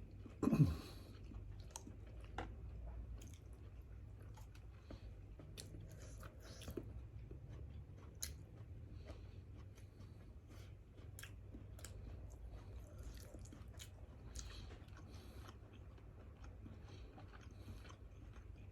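Close-up eating sounds: a person chewing and biting into grilled fish, with scattered small clicks and crunches. A brief louder sound falling in pitch comes about half a second in.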